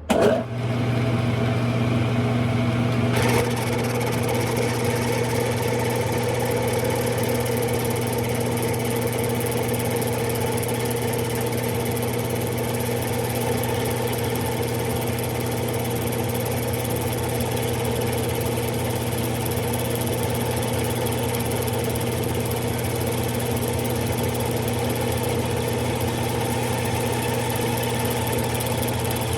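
Smithy lathe switching on and running: a sudden start with a brief surge, then a steady motor and gear hum with a whine above it that shifts slightly about three seconds in.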